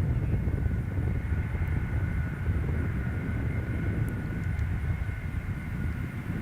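Four-engine Boeing 747 jet engines running: a deep, steady rumble with a steady high whine on top, easing slightly near the end.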